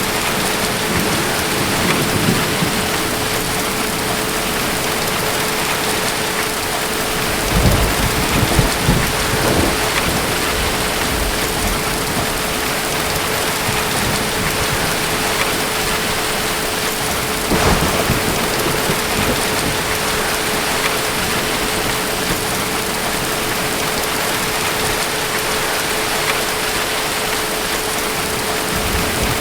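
Steady heavy rain falling, with distant thunder rumbling up twice, about eight seconds in and again near the middle. A faint steady hum runs underneath.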